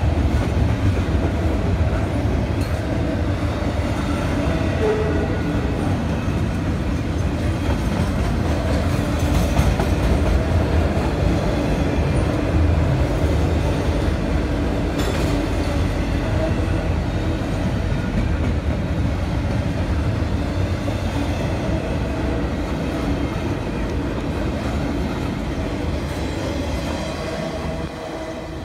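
Double-stack intermodal freight train's well cars rolling past at speed: a steady rumble and rattle of steel wheels on rail, fading near the end.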